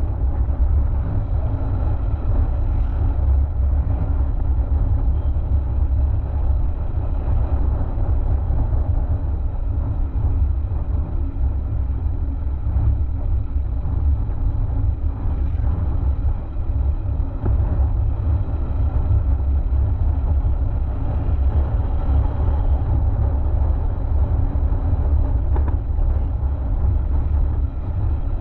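Sound of riding a Honda XR190 single-cylinder motorcycle: steady, loud low rumble of wind on the helmet-mounted action camera's microphone, mixed with the running engine.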